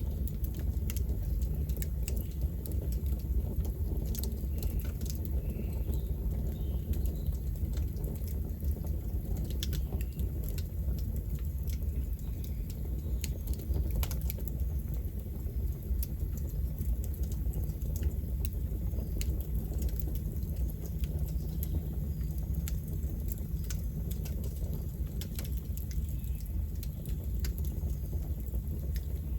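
Campfire burning, wood crackling and popping at irregular moments over a steady low rumble of the flames.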